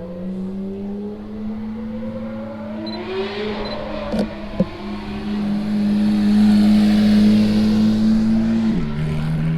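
A car engine running, its note rising slowly and growing louder, then dropping suddenly in pitch near the end. Two sharp clicks come about halfway through.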